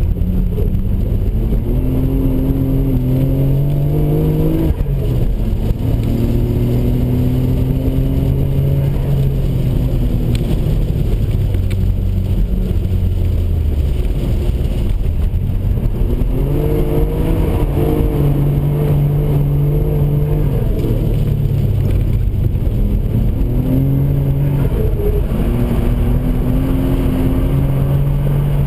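Car engine heard from inside the cabin while lapping a race track, the revs climbing and then dropping several times.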